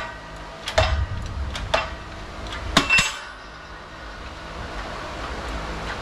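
Sharp metal-on-metal knocks with a ringing tail, about five in the first three seconds, as a wheel bearing is driven down into the hub with an improvised driver. A low steady hum follows.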